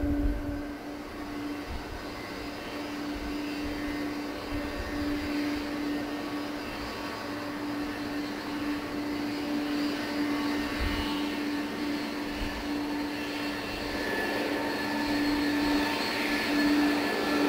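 Boeing 777-200's jet engines running with a steady whine over a rushing hiss, growing somewhat louder near the end.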